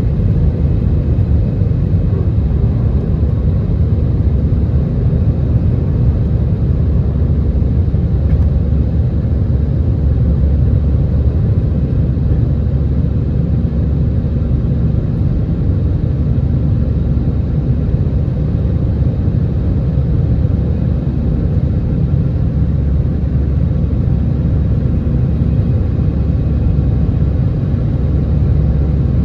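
Airbus A320 jet engine noise during takeoff: a steady, loud low rumble with a faint, even hum over it.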